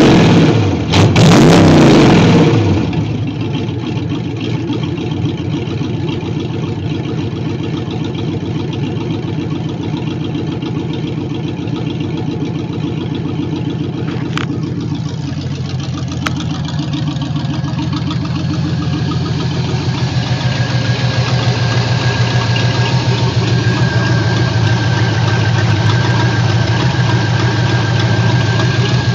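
Chevy 350 small-block V8 running through stainless shorty headers with open exhaust: a couple of loud revs in the first two seconds or so, then a steady idle whose tone changes slightly about halfway through.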